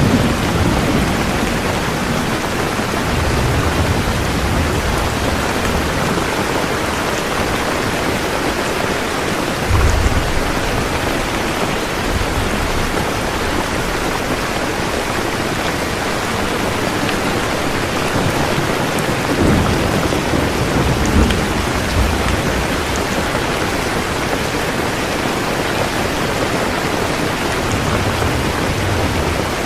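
Steady rain falling, with low rumbles of thunder rolling in a few times: once about ten seconds in and again around twenty seconds in.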